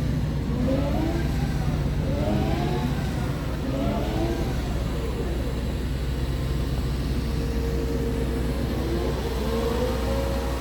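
Scania R tractor unit's diesel engine running with a steady low hum, while a higher wavering tone rises and falls over it several times.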